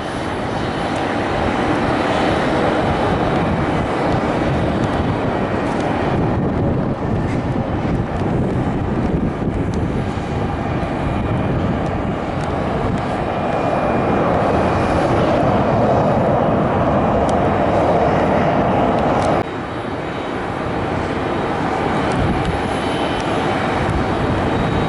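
Jet engines of an arriving Airbus A321neo airliner, a steady loud rumbling jet noise that swells and eases and drops away suddenly about three-quarters of the way through.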